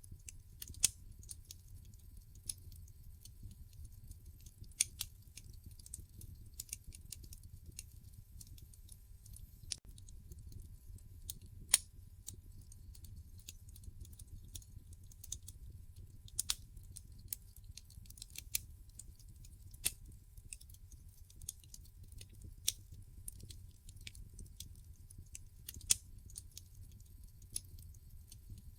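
Wood fire burning in a fireplace, crackling with irregular sharp pops and snaps over a low steady rumble of the flames. A few snaps are much louder than the rest, one about a second in and another near the middle.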